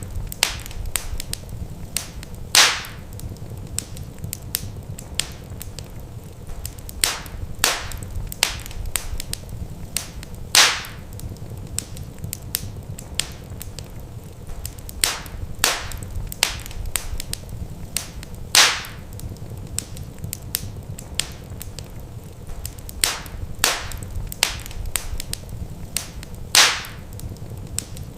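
Wood fire crackling in a fireplace: a steady low rumble with many small sharp crackles and a louder pop about every eight seconds.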